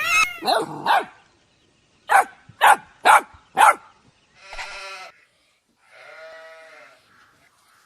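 Animal calls: a few short calls, then four sharp calls about half a second apart, followed by two longer, drawn-out calls, the last one quieter.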